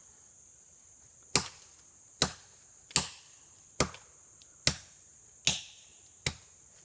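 Axe chopping into a tree trunk: seven sharp, evenly paced strokes, a little under a second apart, starting about a second and a half in.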